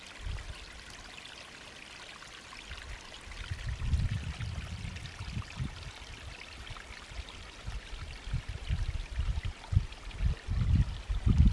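Running water trickling steadily, with low gusts of wind buffeting the microphone a few seconds in and again near the end.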